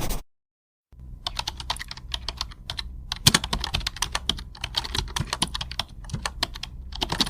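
Typing on a computer keyboard: a run of quick, irregular key clicks starting about a second in, with one louder keystroke a little before the middle. At the very start the tail of a different noisy sound cuts off.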